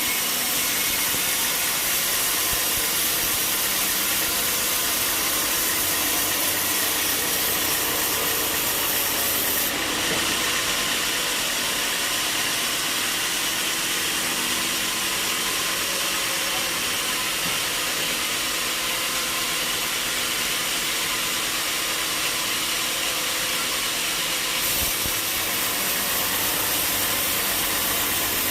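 Sawmill blade cutting through a log: a steady, loud hissing saw noise. The sound changes abruptly about ten seconds in and again near the end.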